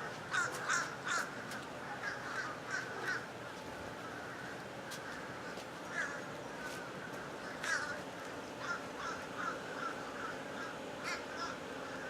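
Crows cawing overhead, many short calls in quick clusters with several birds calling at once.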